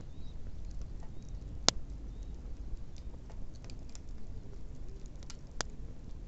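Wood bonfire crackling: scattered small ticks with a sharp pop about two seconds in and two more near the end, over a steady low rumble.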